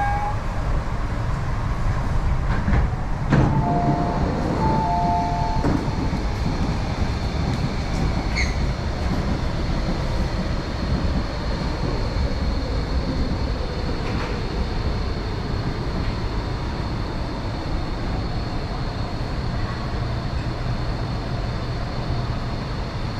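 MTR East Rail Line R-Train electric multiple unit running along the line, a steady rumble of wheels on track with a faint high motor whine whose pitch slowly falls midway. A few short two-note beeps sound about three to five seconds in.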